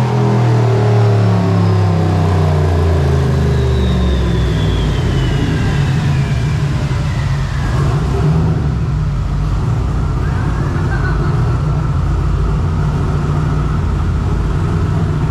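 Turbocharged LS V8 on a hub dyno coming down after a full-throttle pull: the revs fall over the first few seconds while a turbo whine glides down in pitch. The engine then settles into a steady idle.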